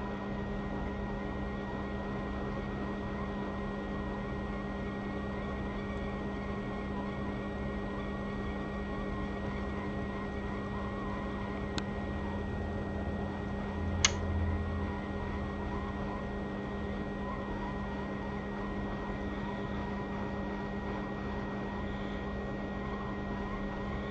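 Hot air rework station's blower running steadily, a constant fan hum, during pad wicking on a phone logic board. Two short clicks in the middle, the second louder.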